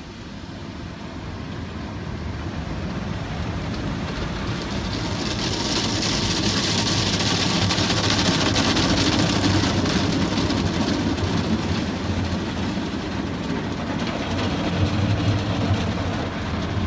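Automatic car wash working over the car, heard from inside the cabin: a steady rushing hiss over a low rumble, building up over the first several seconds and easing slightly near the end.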